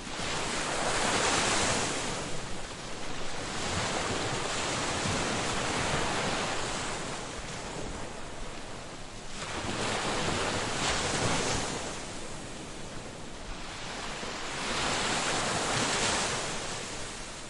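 Ocean waves breaking and washing up on a beach, a steady hiss of surf that swells and recedes, with three larger waves peaking at the start, in the middle and near the end.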